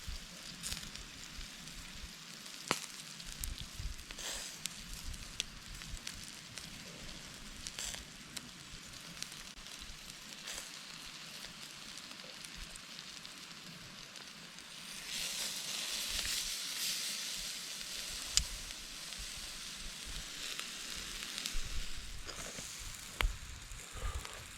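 Food sizzling on a grill over a wood campfire, with scattered sharp pops and crackles. The sizzle swells louder for a few seconds about two-thirds of the way through.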